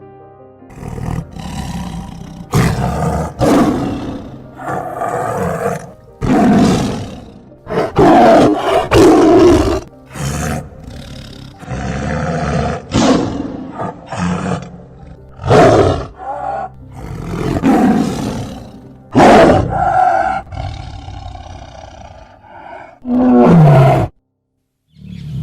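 Lion roaring and growling, about a dozen loud calls one after another with short gaps, cutting off suddenly near the end.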